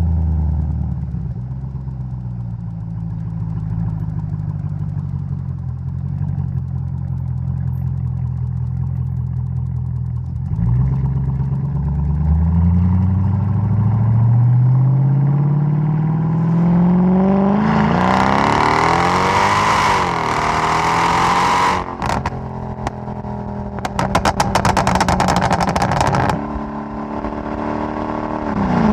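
Mercedes-Benz E 55 AMG's supercharged 5.4-litre V8 exhaust, tuned to 580 hp. It runs steadily at low revs, then accelerates hard from about ten seconds in with the engine note climbing for some ten seconds. On lift-off it gives a run of pops and crackles on the overrun before settling back to steady running.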